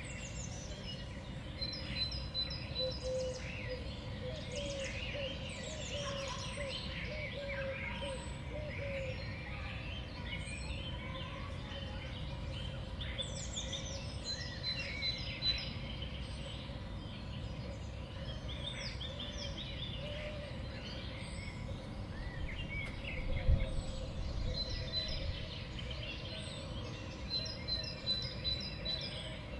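Small songbirds at a winter feeder calling, with many short chirps and quick falling call notes repeated throughout over a steady low background rumble. A single dull thump comes late on.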